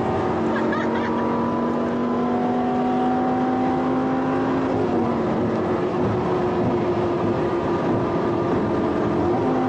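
Audi R8's V10 engine running hard at highway speed, heard inside the cabin over tyre and wind noise, its note holding a steady drone.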